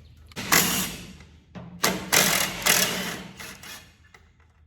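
Impact wrench rattling torque converter bolts loose, in two bursts: a short one about half a second in and a longer one from about two seconds in.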